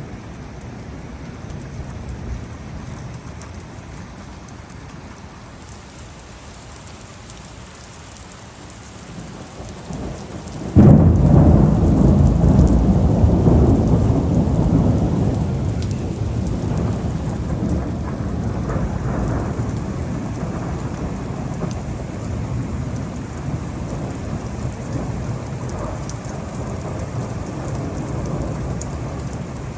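Steady rain falling, then a sharp, loud thunderclap about eleven seconds in, followed by long rolling thunder that slowly dies away while the rain keeps falling.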